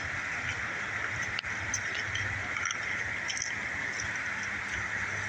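Steady rushing of river water, with faint scattered clicks, such as stones knocking underfoot.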